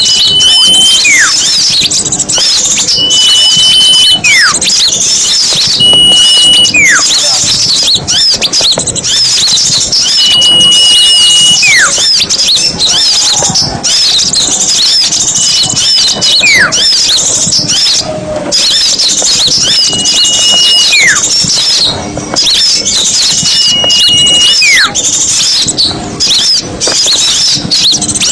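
Bird-lure recording of a crowd of small songbirds chattering and twittering without a break. About every four seconds a repeated call cuts through: a level high whistle, then a whistle falling steeply in pitch.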